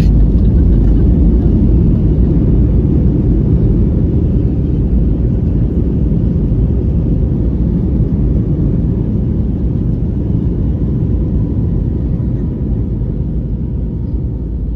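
Airbus A320 landing rollout heard from inside the cabin: a loud, steady low rumble of engines and wheels on the runway that slowly fades as the jet decelerates.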